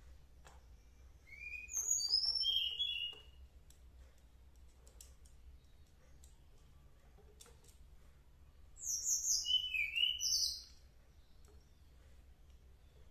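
A songbird singing two bursts of quick, high chirping notes, each about two seconds long, the first about a second in and the second past the middle. Between them, faint light clicks and taps as an air rifle is handled.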